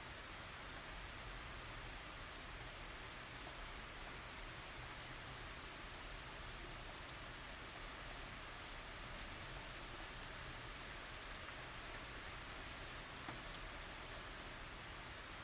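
Steady tropical rain falling on surfaces, an even hiss scattered with many small drop ticks.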